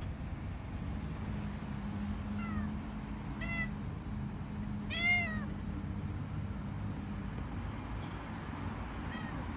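Domestic cat meowing four short times, the third, about five seconds in, the loudest: meowing to be let outside.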